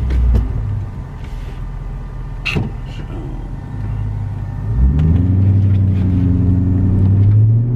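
Chrysler 300's Hemi V8 running through straight pipes with all mufflers removed, under way on the road. The exhaust note eases off for a few seconds, then rises sharply as it accelerates hard about five seconds in and stays loud.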